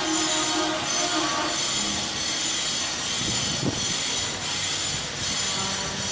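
CNC stone-carving machine's spindle cutting stone: a steady high-pitched screeching hiss that dips briefly every second or two as the tool moves.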